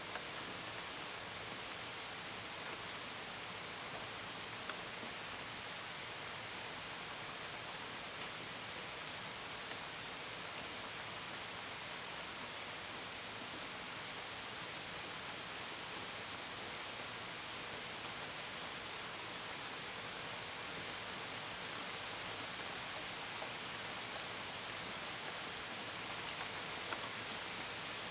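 Steady rain, an even hiss with drops pattering on a window and gutters, and crickets chirping faintly, short high chirps about once a second.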